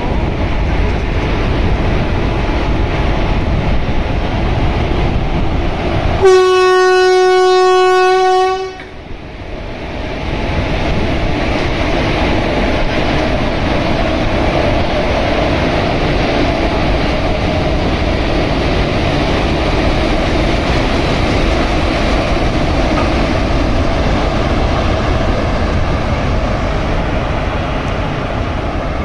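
Electric locomotive sounding one steady horn blast about two and a half seconds long, some six seconds in, as the train departs. Around it is the steady rumble and clatter of the train pulling out, with the coaches rolling past.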